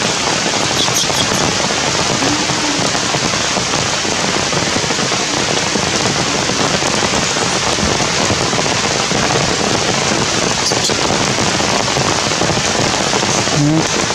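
Rain pouring steadily, a loud, dense, even hiss with no let-up.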